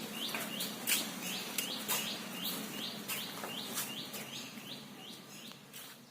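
Birds chirping: a short falling call repeated about two to three times a second, over a steady low hum, growing fainter toward the end.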